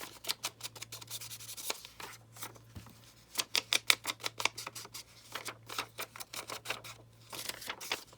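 Paper being handled at a craft table: an irregular run of crisp crackles, rustles and light taps, loudest around the middle.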